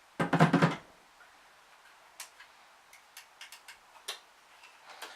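A brief loud burst shortly after the start, then a scatter of light plastic clicks as a battery-powered toy starship is handled and its button pressed, with no sound from the toy: its batteries are flat.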